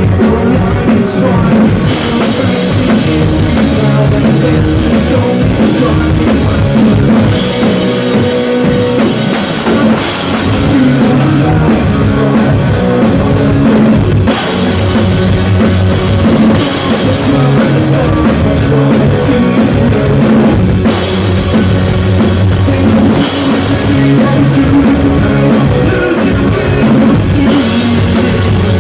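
Live rock music with a drum kit and guitar, played loud and captured with poor, harsh sound quality.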